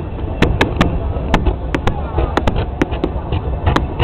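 Fireworks going off in a rapid, irregular barrage, about three sharp bangs a second, over a steady low rumble.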